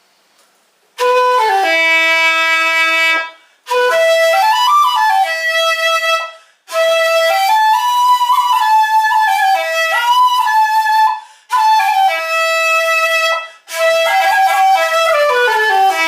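Shakuhachi played as a slow melody in five phrases, starting about a second in, with slides and bends between notes and short breaks between phrases.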